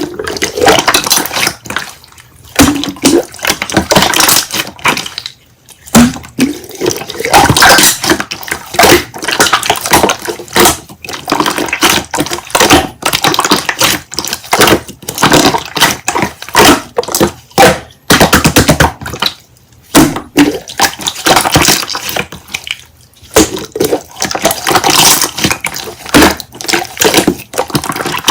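Slime being squeezed and kneaded by hand: wet crackling clicks and pops, in spells of a few seconds with short pauses between.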